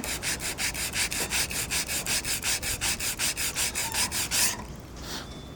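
80-grit sandpaper rubbed by hand in quick, light back-and-forth strokes, about four or five a second, over epoxy filler on a teak rubrail. The strokes stop about four and a half seconds in.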